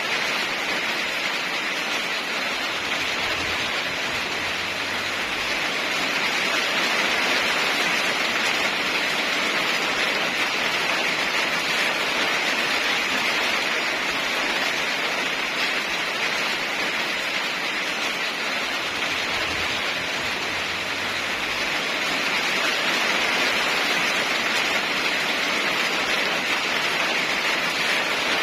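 Heavy rain falling steadily, an even hiss that swells slightly twice.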